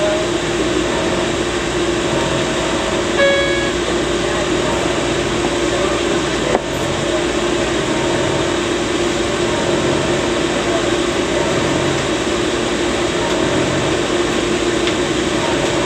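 Steady running noise heard from inside a Muni light-rail car, with a constant low hum. A brief pitched note sounds about three seconds in, and a sharp click comes about six and a half seconds in.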